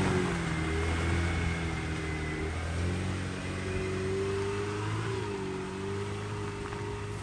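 Off-road 4x4's engine running under throttle, its pitch dipping and picking up again twice, and growing fainter as it pulls away.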